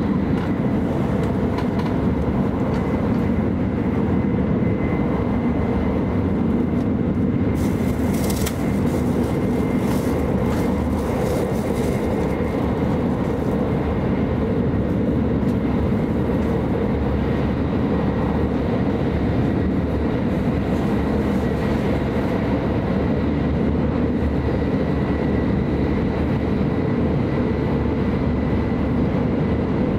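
Steady running noise of an E5 series Shinkansen heard inside the passenger cabin: a low rumble with a faint steady high tone. A brighter hiss with crackle rises for a few seconds about eight seconds in.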